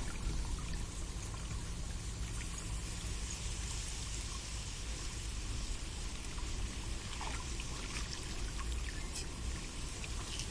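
Waterfall: water pouring and splashing steadily.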